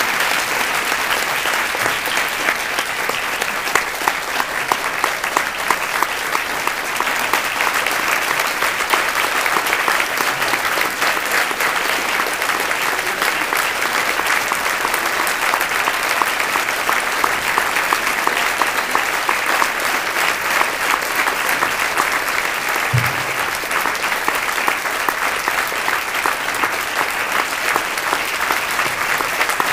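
Audience applauding: long, steady clapping from many hands.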